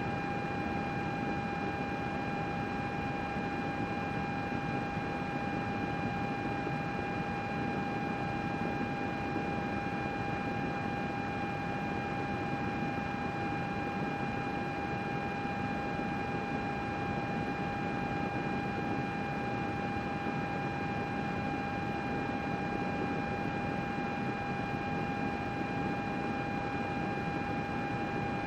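Computer running with its cooling fan whirring: a steady airy hiss with a constant whine at one pitch on top, unchanging throughout.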